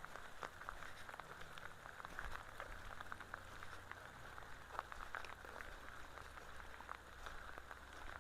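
Light rain falling, a faint steady patter with many small scattered drop ticks.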